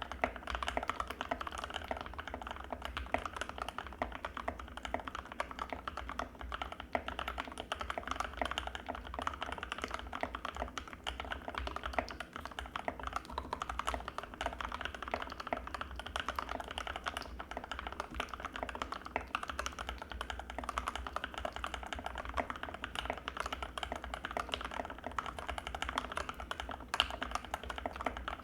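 Continuous fast typing on an Anne Pro 2 60% mechanical keyboard with linear Gateron Red switches: a dense, unbroken patter of soft, creamy keystrokes with no pauses, over a faint low hum.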